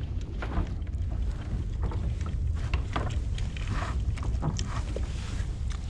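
Wind rumbling on the microphone aboard a kayak on open water, with scattered light knocks and splashes as crab-trap gear is handled over the side.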